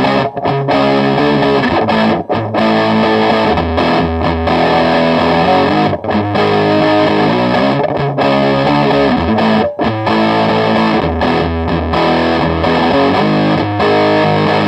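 Electric guitar through a distortion pedal playing heavily distorted chord riffs, with a few short stops between phrases.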